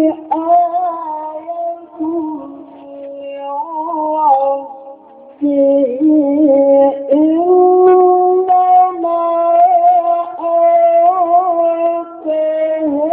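A male Quran reciter chanting in the melodic Egyptian style, drawing out long held notes with ornamental turns and a wavering pitch. The voice dips quieter between about two and five seconds in, then swells again with a few short breaths.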